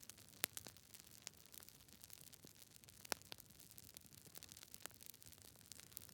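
Campfire crackling: irregular sharp pops and snaps over a faint steady hiss, with the strongest pops about half a second in and about three seconds in.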